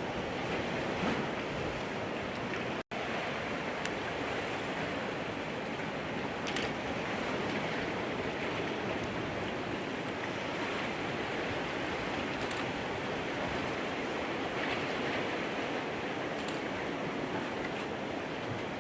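Steady rushing noise that cuts out for an instant about three seconds in, then carries on unchanged.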